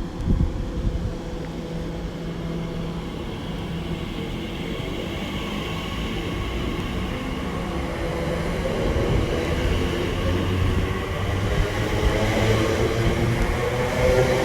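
TfL Rail class 345 electric multiple unit running at the platform, growing steadily louder through the second half with a steady hum of several tones over rumble.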